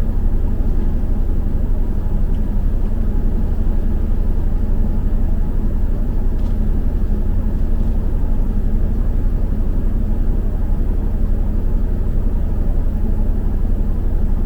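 Steady low rumble of a moving double-decker bus, engine and road noise heard from inside the bus.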